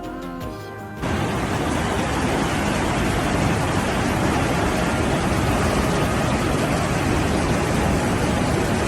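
Loud, steady rushing of water that cuts in suddenly about a second in, with the last of the background music fading just before it.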